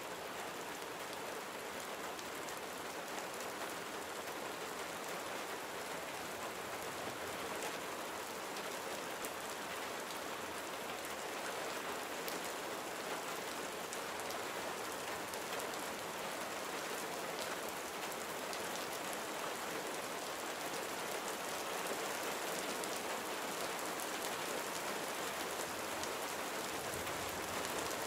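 Gentle summer rain falling steadily: an even hiss of rain with many small drop ticks.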